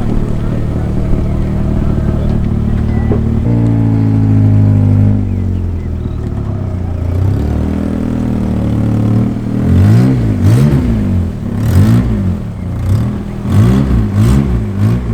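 Car engine idling, then revved: one rise and fall about three and a half seconds in, another near eight seconds, then a string of quick throttle blips, about one a second, each climbing and dropping back.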